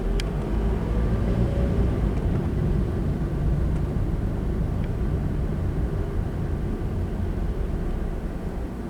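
Car on the move: a steady low road and engine rumble that swells about a second in and eases toward the end, with a short tick near the start.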